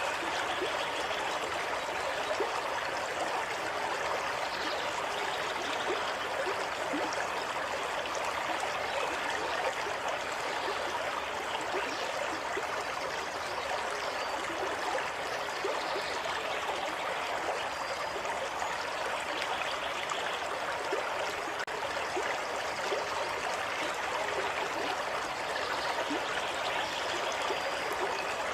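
Water running steadily in a stream, a continuous even rush with no pauses or changes in level.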